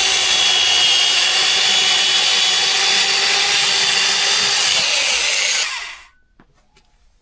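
Power saw cutting old wood, running as a loud, steady whine, then stopping suddenly about six seconds in, followed by a few faint clicks.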